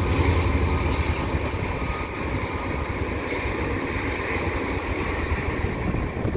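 CN freight train passing at speed, a steady rolling rumble with diesel locomotive engine tones, and wind buffeting the microphone.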